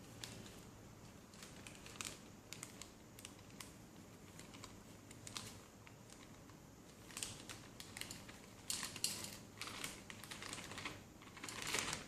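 Light, irregular scraping and clicking of a spatula and utensils against a mixing bowl as flour is worked into sponge cake batter. The clicks grow busier and louder in the second half.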